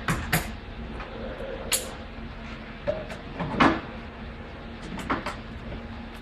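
Scattered knocks and clanks, about seven in all and loudest a little past halfway, from metal parts or tools being handled during vehicle repair work, over a steady low hum.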